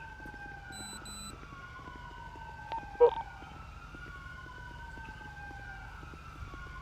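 Emergency-vehicle sirens wailing, their pitch sweeping slowly up and down. A couple of short electronic beeps come about a second in, and one brief sharp sound about three seconds in.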